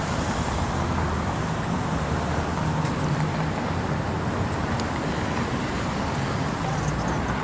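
Steady road traffic noise with the low rumble of a nearby vehicle engine running.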